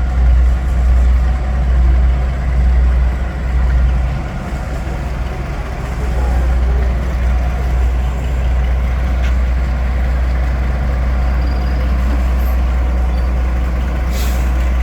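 Heavy diesel locomotive engine running with a steady low drone. A short burst of air hiss comes near the end.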